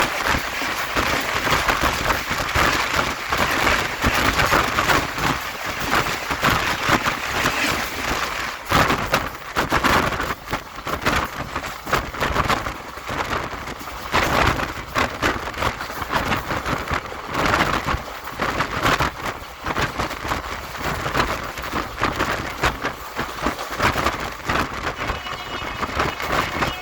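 Train passing at speed: a continuous loud rush with dense clattering of wheels on the track.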